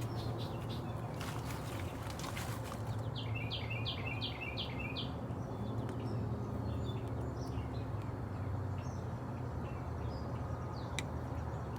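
A songbird sings a quick run of about six repeated high notes a few seconds in, with a few fainter chirps later, over a steady low hum. There are a few light clicks near the start.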